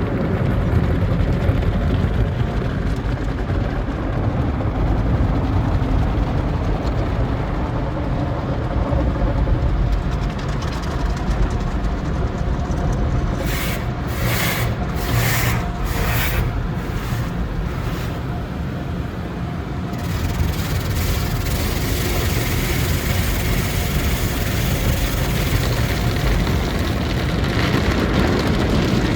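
Sonny's tunnel car wash equipment heard from inside the car: a steady rumble of machinery and water against the car. About halfway there are four short hissing spray blasts, and from about two-thirds in a steady high spray hiss joins.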